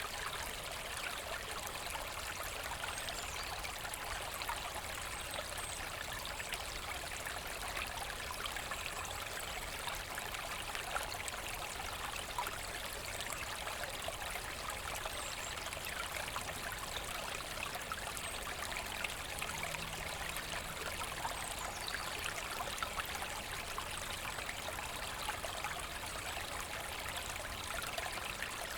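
Forest brook babbling and trickling over stones: a steady rush of water full of small splashes and gurgles.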